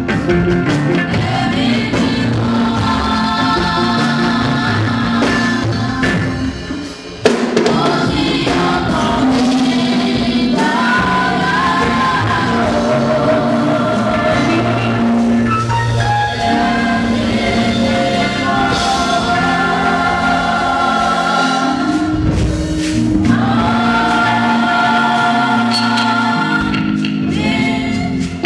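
Choir singing gospel music with drum accompaniment; it briefly drops away about seven seconds in, then comes straight back at full level.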